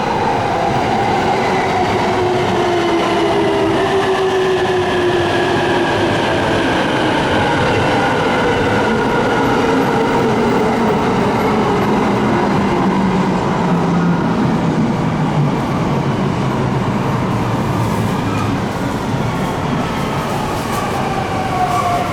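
Electric train slowing down: its motor whine falls steadily in pitch, several tones together, over running noise of wheels on rail. A new falling tone comes in near the end.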